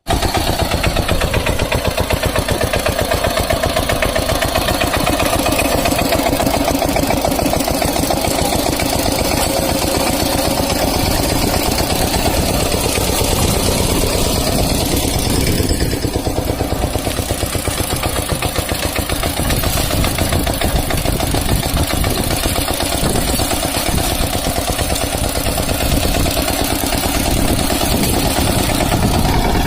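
Kamco KMB200 DI power tiller's single-cylinder diesel engine running steadily with a fast, even chugging beat.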